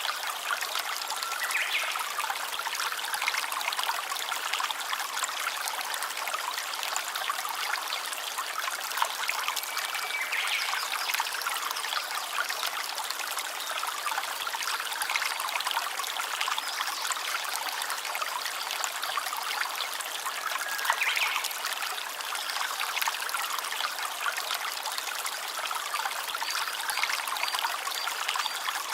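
Stream water trickling steadily, an even rush with no low rumble, with a few brief faint high tonal notes now and then.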